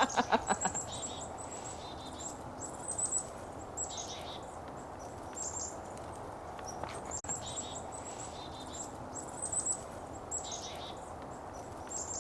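A small flock of black-capped chickadees calling repeatedly: each bout is high, thin notes followed by a few short buzzy 'dee-dee' notes, recurring every second or two over a steady background hiss.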